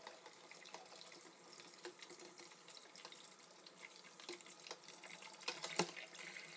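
Kitchen faucet running hot water onto a metal double honey strainer, the stream splashing through the mesh into a plastic bucket to rinse the honey off. Small clinks of the strainer run through it, with one sharper knock near the end.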